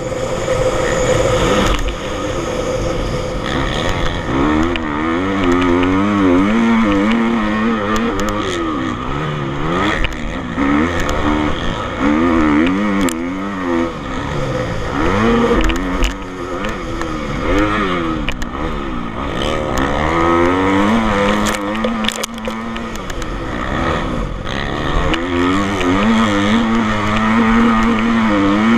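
Motocross bike engines revving on a dirt track, the pitch rising and falling again and again as the bikes accelerate and shift.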